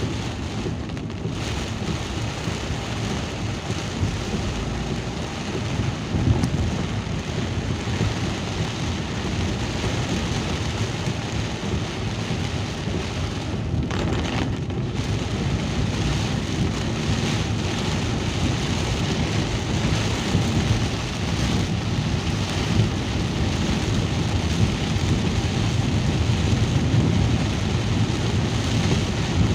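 Steady rain, a dense hiss with a low rumble under it; the hiss thins briefly about 14 seconds in.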